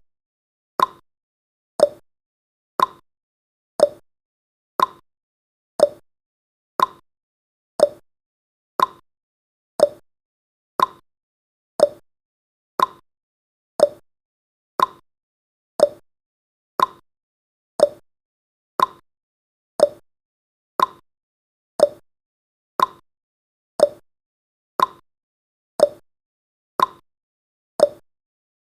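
Countdown timer's ticking sound effect: a short, sharp tick once every second, evenly spaced.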